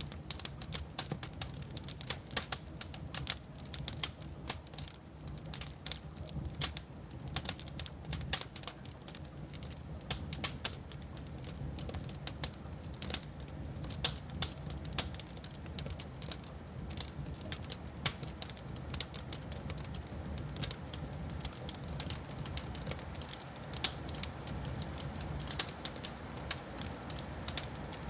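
Wood fire crackling, with many sharp pops in rapid, uneven succession over a low steady rumble that grows slightly louder in the second half.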